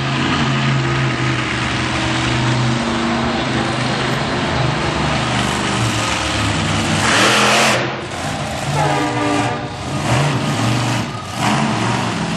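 Monster truck engine running hard during a freestyle run, its pitch rising and falling as it is revved. About seven seconds in there is a loud, noisy surge lasting under a second.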